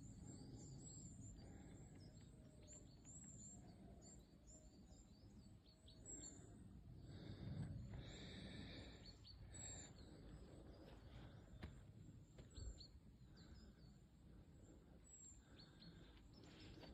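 Faint woodland birds chirping, many short high calls repeating throughout over low outdoor background noise.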